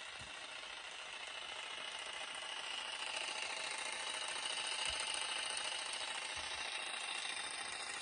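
A steady, engine-like mechanical hum with a light rattle, growing slowly louder toward the middle and easing slightly after.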